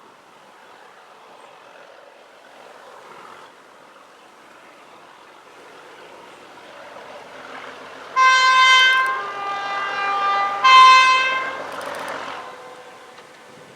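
A locomotive's two-tone horn sounds high, then low, then high again, over the building noise of an approaching train.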